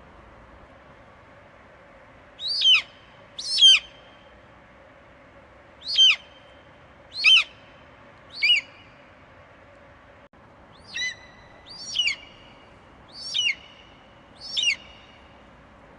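Eagle screeching: a series of short, high calls, each falling in pitch. There are five, then a short pause, then four more, over a faint steady hiss.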